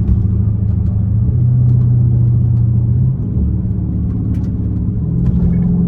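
Straight-piped Dodge Charger Scat Pack's 392 HEMI V8 droning while driving, its exhaust note stepping up in pitch about a second in, dropping back around three seconds, and rising again near the end. A few faint ticks sound over it.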